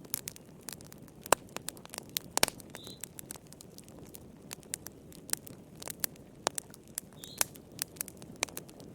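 Wood fire in a fireplace crackling: irregular sharp pops and snaps over a low steady rumble of the flames, with the loudest pops a little over a second and about two and a half seconds in.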